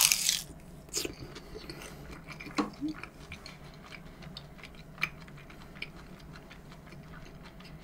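Quiet chewing and mouth sounds of a person eating, with a short noisy burst at the start and a few scattered small clicks.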